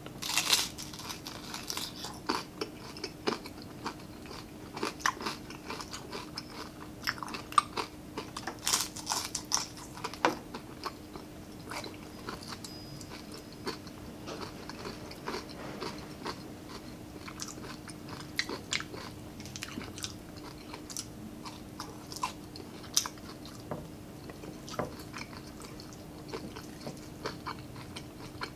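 Close-miked chewing of crispy fried pork: crunchy bites and wet mouth clicks and smacks, loudest and densest in the first ten seconds, then softer, sparser chewing. A faint steady hum runs underneath.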